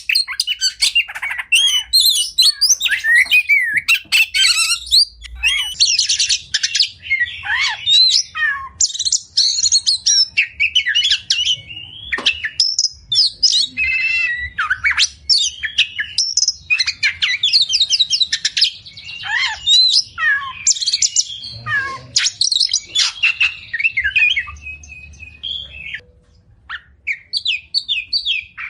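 Oriental magpie-robin (kacer) singing a long, varied song of whistles, chirps and fast trilled runs, one phrase following another almost without pause. The song thins out and becomes quieter near the end.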